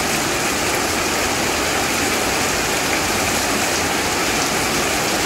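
Heavy rain pouring down in a steady, even hiss on concrete and puddled ground.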